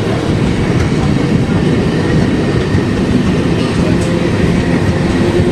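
Indian Railways passenger coaches rolling past close by, a loud, steady rumble of steel wheels on the rails.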